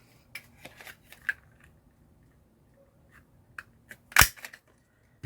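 Small clicks and taps of craft tools and paper being handled on a tabletop, then a single sharp knock about four seconds in.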